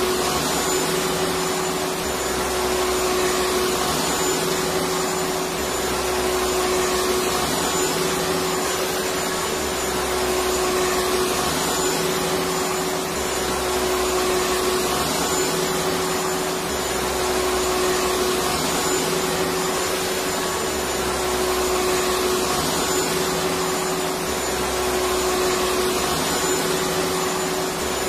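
Electric vacuum cleaner running steadily: a continuous rush of air with a steady hum from the motor, and a low part that swells gently every couple of seconds.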